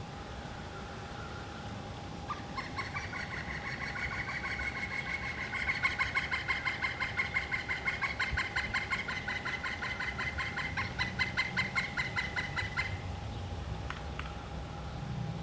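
A woodpecker calling: a long, rapid run of repeated pitched notes, several a second, that starts about two seconds in, goes on for about ten seconds and then stops abruptly. A faint steady hum sits underneath.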